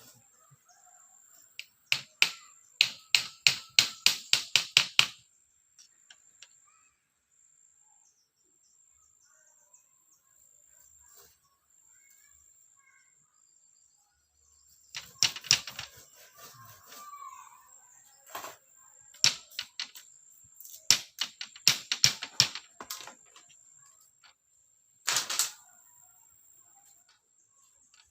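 Runs of sharp knocks from a tool striking bamboo, about three a second. There is a quick run of about ten strikes near the start, then more groups of strikes in the second half.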